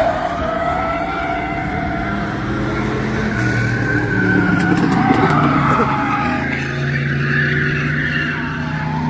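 Several bomber-class stock cars racing on track, their engines running together with overlapping pitches that rise and fall as the cars circle.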